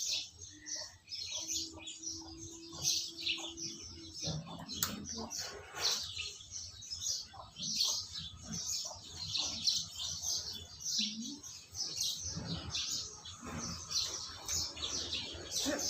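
Many small birds chirping continuously, with a few soft low knocks.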